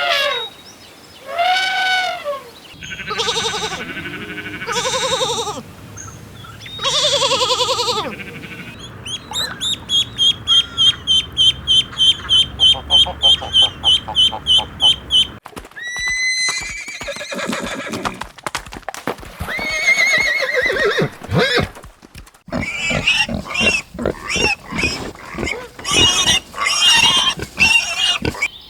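A run of different animal calls, cut one after another: a few arching calls at the start, longer pitched calls, then a fast string of high repeated notes lasting several seconds, and finally a jumble of short calls and clicks.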